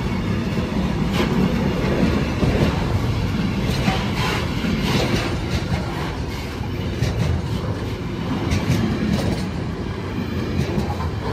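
Freight train rolling past: a steady rumble of wagon wheels on the rails, with irregular clacks as the wheels cross rail joints.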